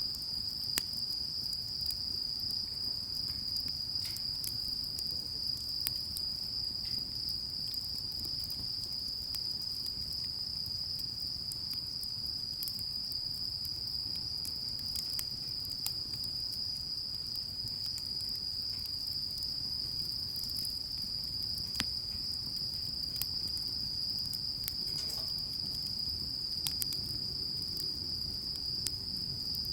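Crickets chirring in a continuous, steady high-pitched trill, with scattered faint clicks.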